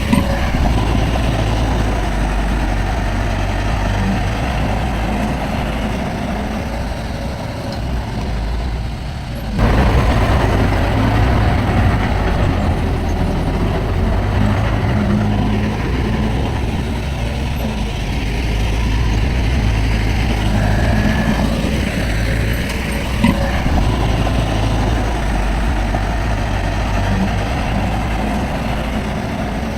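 Diesel engines of earthmoving machinery, a bulldozer and dump trucks, running steadily with a deep rumble. About a third of the way in the sound suddenly gets louder, and there is one short knock later on.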